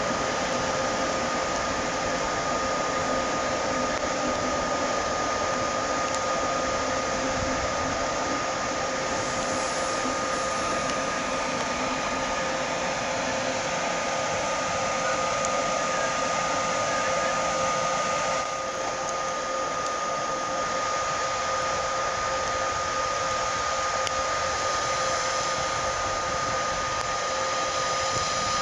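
Steady whirring hiss of railway machinery with a constant whine, the blower and fan drone of trains standing and moving at a large station. It dips slightly in level about two-thirds of the way through.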